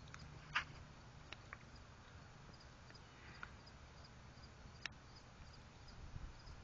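Quiet outdoor background with faint, high, repeated chirping and a few short, sharp chirps or ticks; the loudest comes about half a second in.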